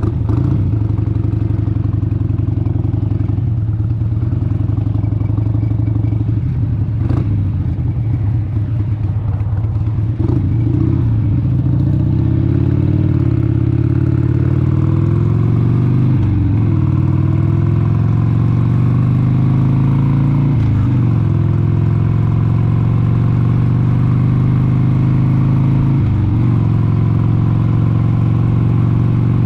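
1996 Harley-Davidson XLH883 Sportster's air-cooled V-twin running at a steady cruise, then accelerating from about ten seconds in. Its note climbs and drops back at each of about four upshifts.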